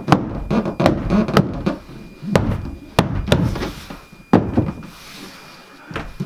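A wall panel being pushed and knocked into place, with several sharp knocks and thuds and the board rubbing and scraping between them, fewer towards the end.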